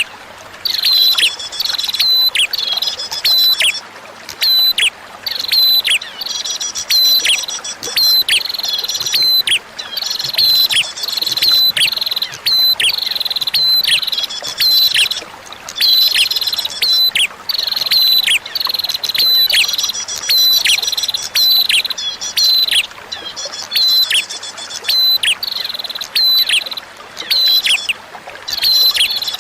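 Prinia (prenjak) song: loud, rapid repeated chirping notes in bursts a second or two long, over a faint steady rush of running water.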